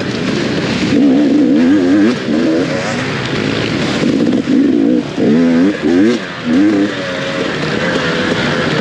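Dirt bike engine revving up and down in quick swells as the throttle is worked, then holding a steadier, higher pitch for the last couple of seconds, over a constant rushing hiss.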